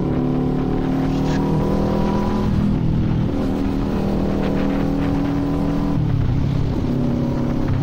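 Kawasaki Z400 parallel-twin engine pulling steadily under way, with the engine note changing about two and a half seconds in and again about six seconds in.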